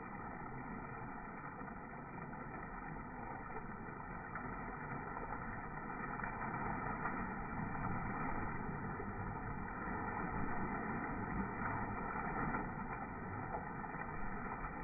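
Steady rushing noise of a boat under way on the sea, slowly getting a little louder.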